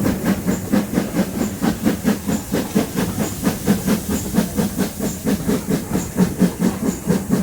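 Steam locomotive working hard up a steep gradient, its exhaust chuffing in a fast, even rhythm with a hiss of steam, heard from the train it is hauling.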